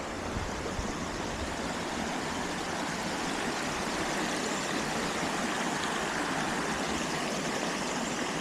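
Small stream flowing over rocks: a steady babbling rush of water.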